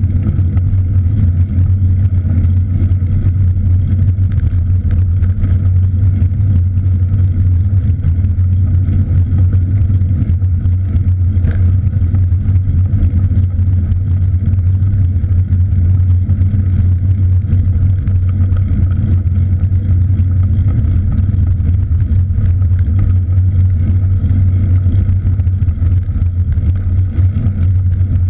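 Steady low rumble of wind on the microphone from riding a bicycle, with an even noise over it that holds unchanged throughout.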